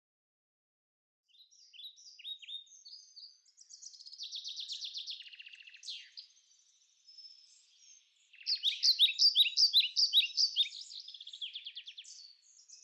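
Birds chirping and singing: high, quick chirps and trills that start about a second in, loudest in a fast run of repeated chirps past the middle.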